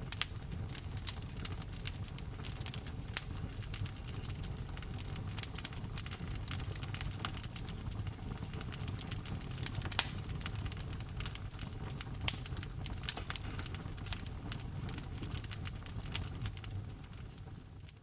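Wood fire crackling, with frequent sharp pops and snaps over a low, steady rumble of burning logs; a few pops stand out louder. The sound fades out near the end.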